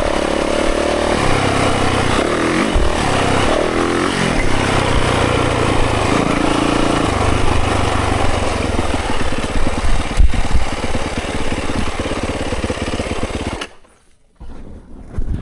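Dirt bike engine revving on a trail ride, its pitch rising and dropping as the rider works the throttle and gears, with a sharp knock about ten seconds in. The engine sound cuts off abruptly over a second before the end.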